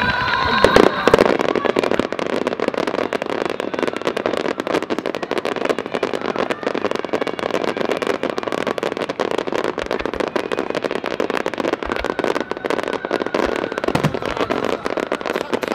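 Fireworks barrage: a dense, unbroken rapid crackle of many shells and effects going off at once, with a louder flurry of bangs about a second in.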